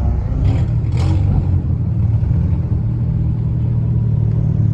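A car engine rumbling steadily at low revs, with a couple of short noises about half a second and a second in.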